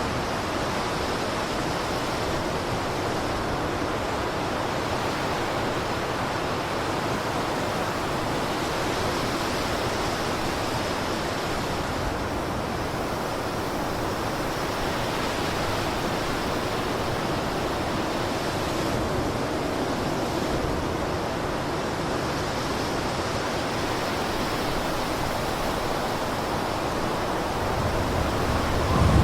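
Blizzard wind blowing steadily, a dense rushing noise with slight slow swells, and a stronger, deeper gust building near the end.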